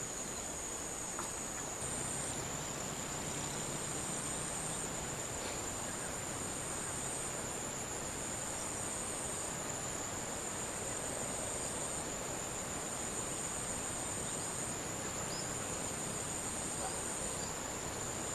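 Insects trilling: one steady high-pitched trill throughout, with a second, higher trill that starts and stops every second or two.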